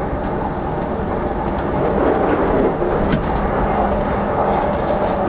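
Chuo Line Rapid Service electric commuter train running, heard from inside the car: a steady rumble of wheels on rail with a low motor hum, and a single click about three seconds in.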